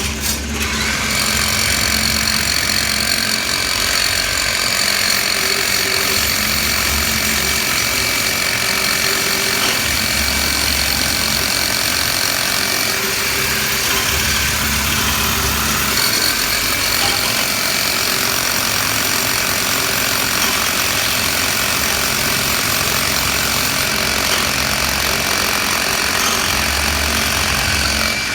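Power drill running steadily with a high whine, boring a hole; it starts at the very beginning, with a low rumble that comes and goes.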